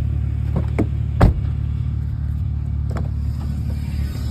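Car engine running steadily with a low rumble, with a few sharp knocks and clunks over it, the loudest about a second in.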